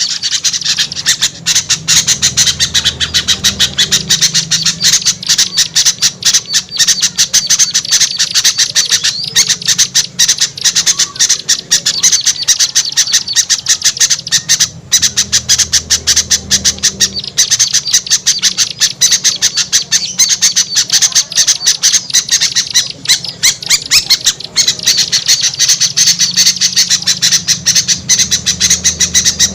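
A dense, continuous chorus of many small birds chattering and squawking in rapid harsh calls without a break: a noisy mixed-species lure recording (suara pikat) of agitated small birds, meant to draw wary birds down.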